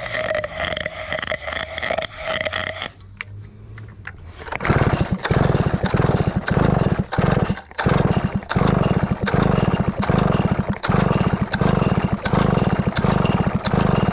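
Stihl 051 chainsaw being cranked hard on its recoil starter with the spark plug out, blowing carb cleaner and water out of the plug hole in a loud, rough, chuffing rush for about ten seconds. Before that comes a few seconds of a steady pitched tone.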